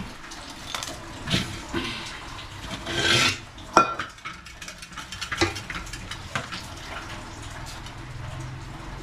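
Metal cooking pot, lid and knife clinking and scraping as they are handled, with a noisy scrape about three seconds in and a sharp ringing clank just before four seconds.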